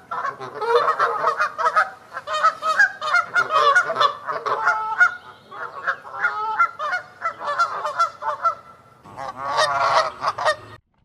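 Geese honking: many overlapping calls from a flock, with a louder, denser burst of honking about nine seconds in.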